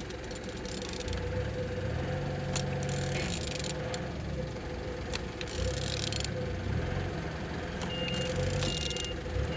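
A vehicle engine running nearby with a low, steady hum, mixed with a few short bursts of hiss and sharp clicks. From about eight seconds in, a reversing alarm beeps in short, evenly spaced pulses.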